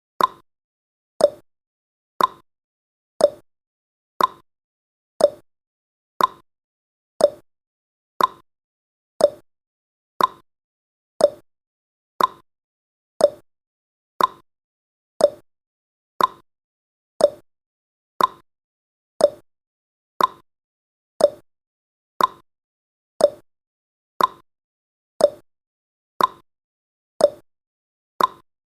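Countdown timer's ticking sound effect: a short, sharp click once a second, successive clicks alternating slightly between a higher and a lower pitch like a clock's tick-tock.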